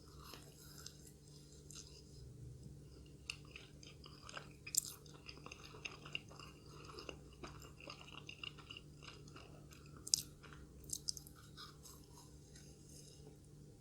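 Close-up chewing of a curry puff with chicken, curry, potato and egg filling, with crisp crackles from the pastry and a few sharp crunchy bites, loudest about five and ten seconds in.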